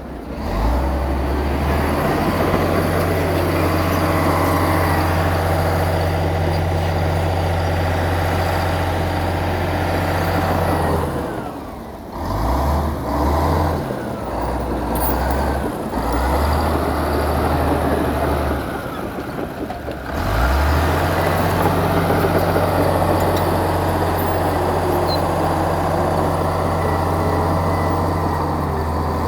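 Heavy diesel earthmoving machinery working, a deep steady engine note. From about 11 s to 21 s the engine speed changes and the note rises and falls, then it settles into a steady run again.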